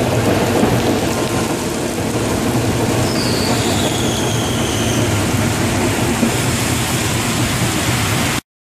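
Passenger train running, heard from inside the coach: a steady rumble of wheels on the rails. About three seconds in, a high squeal slides down in pitch as the train slows past the platforms. The sound cuts off suddenly near the end.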